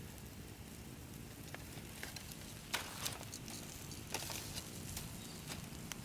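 Wood fire crackling, with a few sharp pops over a low steady hiss.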